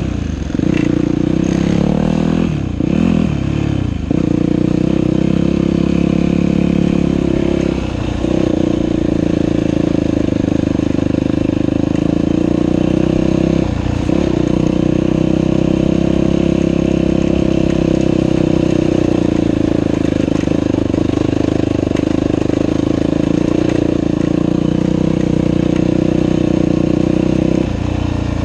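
Dirt bike engine running under way on a trail, the note steady for long stretches. The pitch briefly drops and climbs back several times in the first few seconds, then again about eight and fourteen seconds in, as the throttle is eased and opened.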